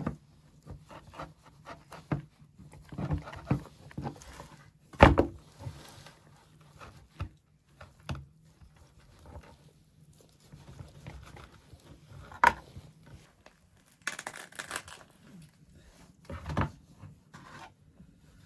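Irregular knocks, clicks and scrapes of things being handled, with a sharp knock about five seconds in, another about twelve seconds in, and a short scrape soon after.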